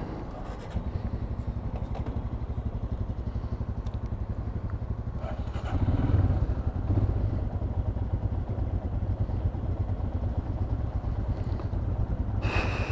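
Royal Enfield Himalayan's single-cylinder engine running with a fast, even low pulse, starting to build just under a second in and getting louder about six seconds in as the motorcycle gets under way. A short high-pitched tone sounds near the end.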